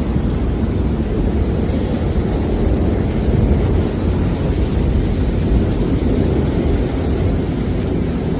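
Strong storm wind buffeting the microphone: a steady, loud, low rumble of noise.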